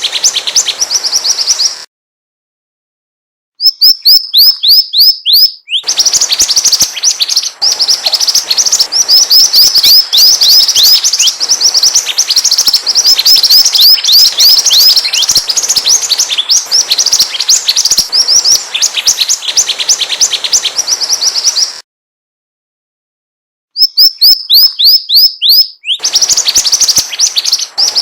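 Mantenan bird song played as a lure (masteran): rapid runs of high, downward-slurred chirps, stopping dead twice for a second or two where the recording is looped.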